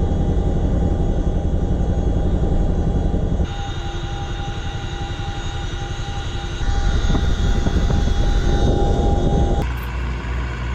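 Aircraft engines running steadily, a loud hum with a strong low rumble. The sound shifts abruptly about three and a half, six and a half, and nine and a half seconds in, as separate stretches of engine noise follow one another.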